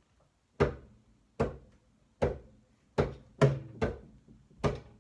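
Bongos played solo as the intro to the song: single hand strikes a little under a second apart, each with a short pitched ring, with a quicker run of hits around three seconds in.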